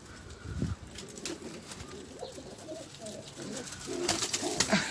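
Domestic pigeons cooing in short low calls, with scattered light clicks.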